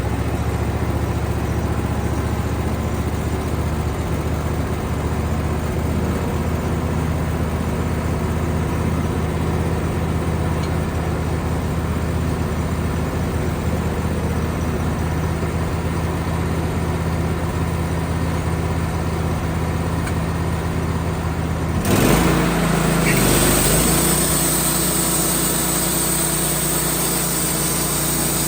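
Sawmill engine running steadily just after starting. About 22 seconds in the sound jumps louder and shifts, and a high hiss comes in and stays.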